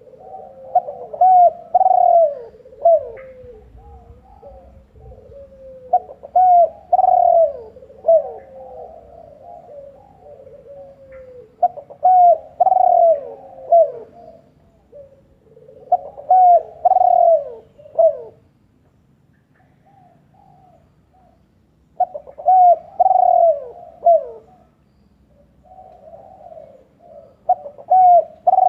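A bird calling over and over in phrases of short, arched notes, a phrase every five seconds or so, with a longer pause about two-thirds of the way through.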